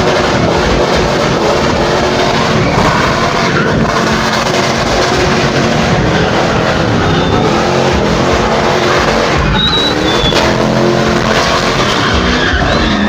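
Car drifting: its engine revving hard and rising and falling in pitch, over a steady roar of spinning, screeching tyres, with brief high squeals near the end.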